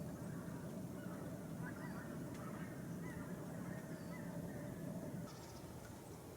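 Faint honking bird calls, a few short wavering cries, over a steady low rumble that drops off about five seconds in.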